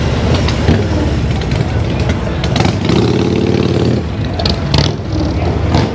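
Motorcycle engines running loudly, with a held pitched note for about a second near the middle.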